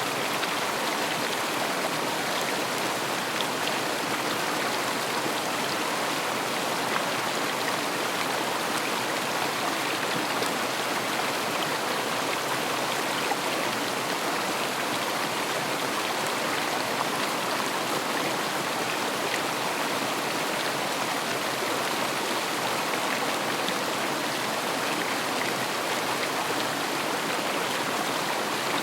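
River water flowing and splashing over stones: a steady, even rush of running water.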